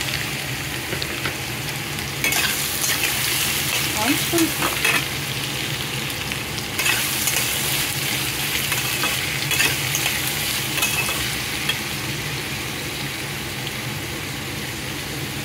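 Freshly added chopped white gourd sizzling in hot oil with cumin seeds and ginger in a stainless steel kadhai, stirred with a metal spatula that clicks and scrapes against the pan. The sizzling swells in stretches while the pieces are turned.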